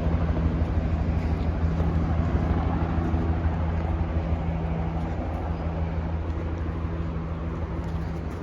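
A vehicle engine idling steadily, a low even hum that slowly fades.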